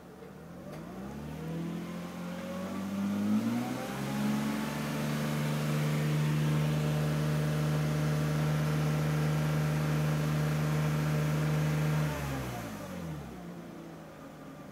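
Mercedes W202 C280's straight-six engine, heard from inside the car, revved up from idle over a few seconds, held at a steady high speed for about eight seconds, then let fall back to idle near the end.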